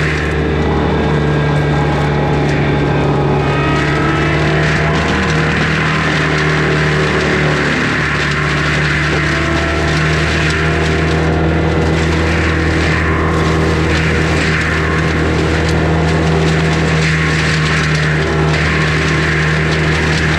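Skid steer diesel engine running steadily under load, with a forestry mulcher head grinding through brush and wood. A whine shifts in pitch during the first few seconds.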